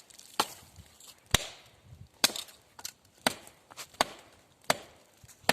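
Wood being chopped: a string of about nine sharp strikes, roughly one every half second to second.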